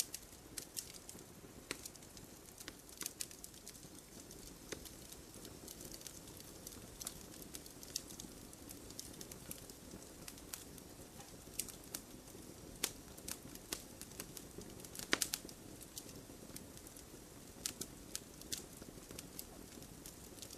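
Wood campfire crackling: irregular sharp pops and snaps over a low, steady rush of flame, with one louder pop about 15 seconds in.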